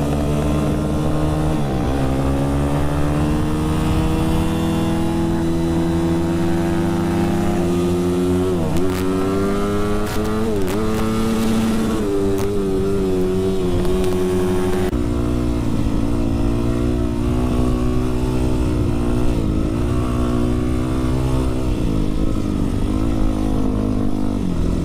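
Dirt bike engine pulling under load, its pitch climbing and then dropping sharply at several gear changes, then holding roughly steady. Heard from the rider's camera with a low wind rumble.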